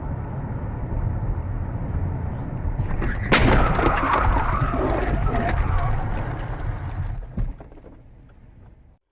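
Road vehicle collision: steady engine and road noise, then about three seconds in a loud sudden impact, followed by a few seconds of rattling and clattering debris that dies away.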